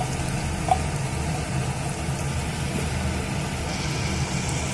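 Tomato, ginger, garlic and green-chili paste frying in oil on fried onions in a frying pan, under a steady low hum. A light clink about a second in.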